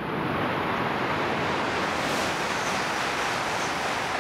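E8 series Shinkansen trainset passing close by, a loud, steady rushing of air and wheels on rail that swells as it arrives.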